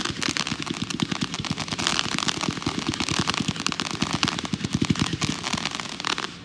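A 145-shot consumer firework cake firing in a rapid, continuous barrage of shots and crackling reports, stopping abruptly near the end.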